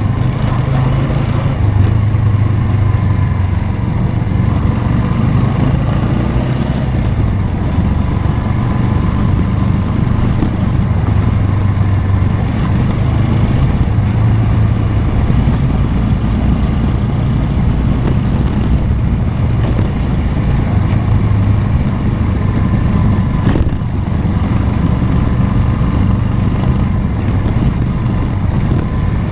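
Motorcycle engine running steadily while being ridden, its low drone rising and falling slightly with the throttle, with one brief knock about three-quarters of the way through.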